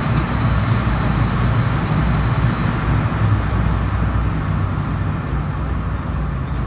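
Storm-simulator wind machine blowing a steady 30 m/s artificial gale, a continuous rush of wind with heavy low buffeting on the microphone and a faint steady whine.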